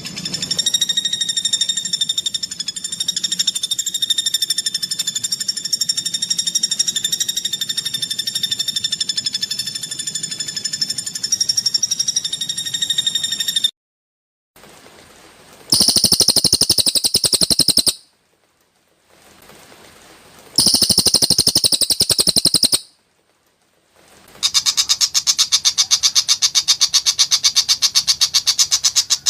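Greater green leafbird (cucak hijau) song: a long unbroken high note with overtones for about fourteen seconds, then three bursts of very rapid rough rattling notes, separated by sudden short silences where clips are spliced together.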